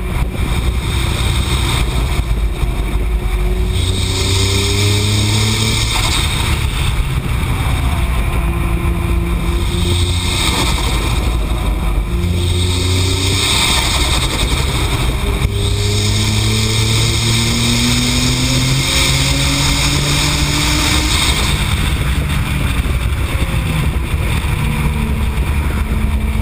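Twin-turbo 3.8-litre V6 of a Nissan GT-R, tuned to the AAM-800+ package and running on its low boost setting, pulling hard on track. The revs climb, then fall back at each gear change or corner, several times over.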